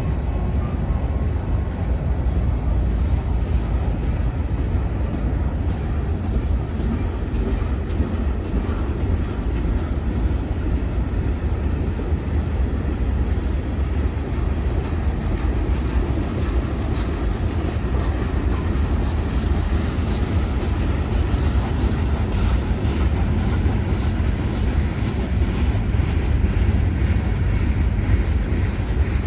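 A train passing on the rails: a steady rumble of wheels and cars that gets somewhat brighter near the end, with wind on the microphone.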